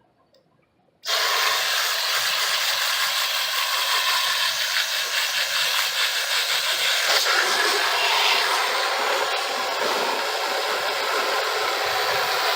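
Garden hose spraying water into an RV roof air conditioner to rinse out caked dirt, a steady hiss that starts suddenly about a second in.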